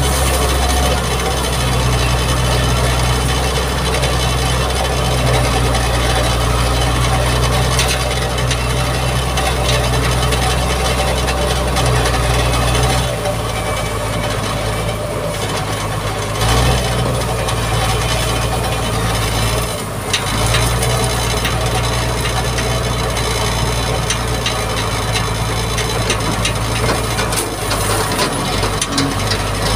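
Mitsubishi MG330 motor grader's diesel engine running under load, with a rasping scrape of the blade working the dirt road surface. The engine's low hum drops away about 13 seconds in and picks back up a few seconds later.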